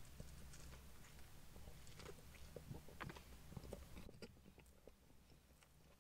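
Faint close chewing of a chicken burger, with small soft mouth clicks and bites, over a low steady hum that fades about four seconds in.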